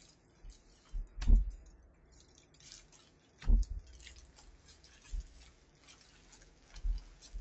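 Keyboard box and packaging being handled as the keyboard is pulled out: soft rustling with several dull thumps, the two loudest about a second and three and a half seconds in.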